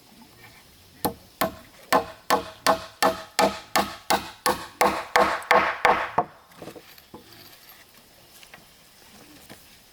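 A hand tool striking wood in a quick, even series of about fifteen blows, roughly three a second, each with a short ringing note, stopping abruptly about six seconds in.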